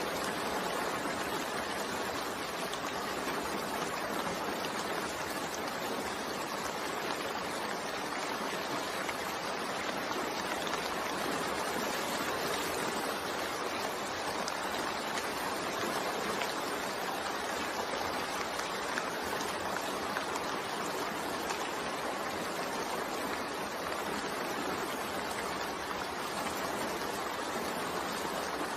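Steady rain falling, an even, continuous hiss with no pauses.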